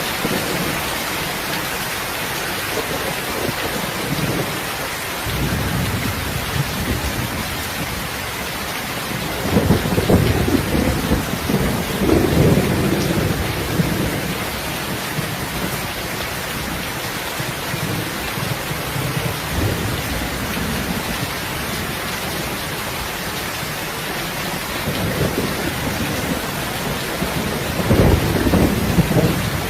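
Steady rain, with low rumbles of thunder swelling up about a third of the way in and again near the end.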